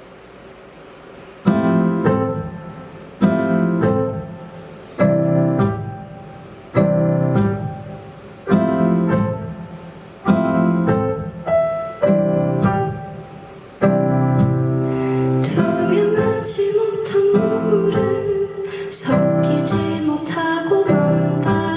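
Piano intro to a song: single chords struck about every second and three quarters, each left to ring and fade. About two thirds of the way through, the playing becomes continuous and a higher, wavering sustained line joins in.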